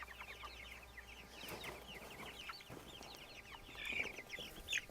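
A flock of young meat chickens peeping steadily: many short, high, falling chirps overlapping one another.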